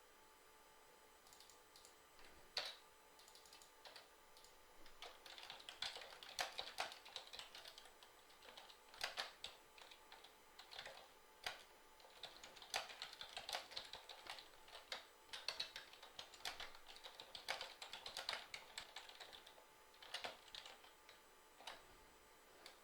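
Faint computer keyboard typing: irregular bursts of key clicks, with short pauses between runs.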